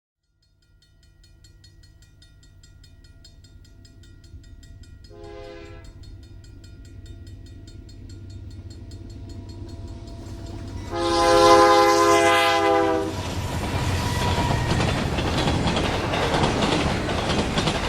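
Diesel locomotive approaching with a rumble that builds steadily, sounding a short horn blast about five seconds in and a longer, louder blast about eleven seconds in. The train then passes close by, loud, with wheels clicking over the rail joints.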